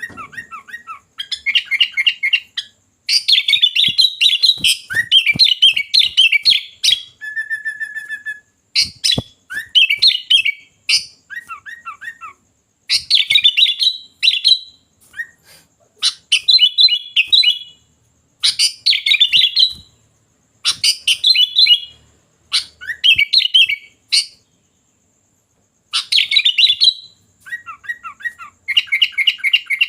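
Sooty-headed bulbul (kutilang) singing persistently: rapid chattering phrases about a second or two long, repeated with short pauses. One held, clear whistled note comes about eight seconds in.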